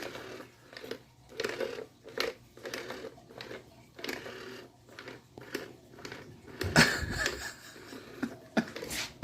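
A kitten moving about in a cramped hiding spot: intermittent rustling, scratching and small clicks, with a louder bump about seven seconds in.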